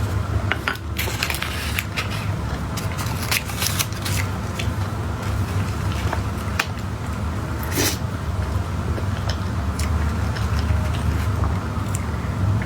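Close-miked eating of soft cake: quiet bites and squishy mouth sounds with scattered sharp clicks, over a steady low hum.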